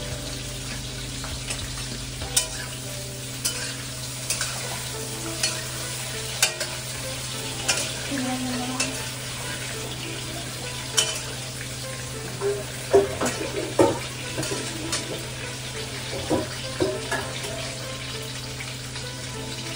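Brinjal pieces frying in hot oil in a metal kadai, sizzling steadily, while a spatula scrapes and knocks against the pan as they are stirred.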